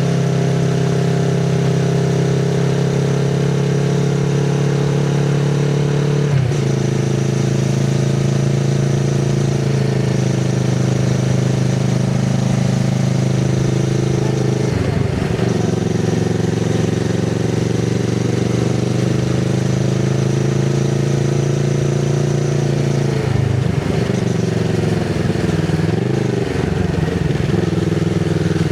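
2024 Kawasaki Z650RS parallel-twin engine through an IXIL MK2 full aftermarket exhaust with its dB killer fitted, running steadily under way. The engine note breaks and dips briefly about six seconds in and again about fifteen seconds in, then wavers up and down near the end.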